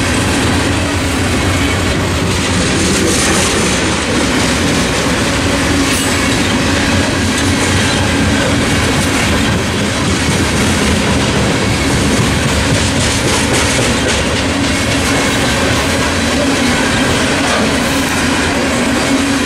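Freight train of coal hopper cars rolling steadily past: a continuous loud rumble of steel wheels on rail with the clickety-clack of the trucks passing over rail joints.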